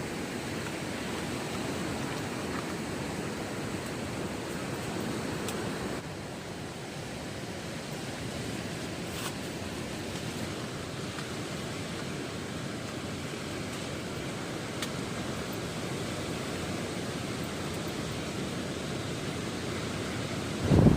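Steady wash of strong wind and breaking surf on a beach, an even noise with no distinct events, dipping slightly about six seconds in.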